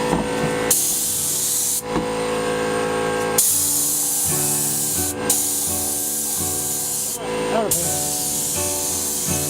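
Spray paint hissing from the nozzle in four bursts of one to two seconds each, with short breaks between them, as white paint is sprayed onto the engine bay.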